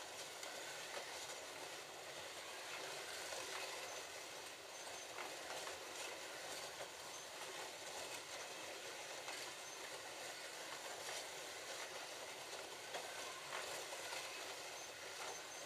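Several slot cars racing around a plastic Scalextric track. Their small electric motors make a steady whir, with light clicking from the cars running along the slotted track.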